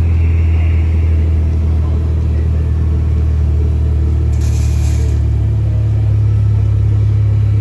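Straight-piped Dodge Charger exhaust idling with a steady deep rumble, the pitch stepping up slightly about five seconds in.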